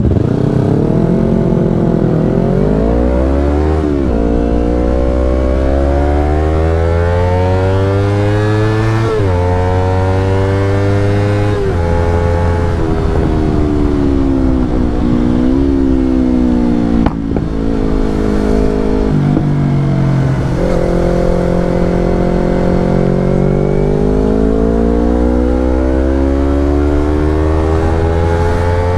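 Yamaha R25 parallel-twin running through a Brave aftermarket exhaust while ridden. The engine note keeps climbing in pitch as the bike accelerates, then drops sharply at each gear change, and in places falls away as it slows.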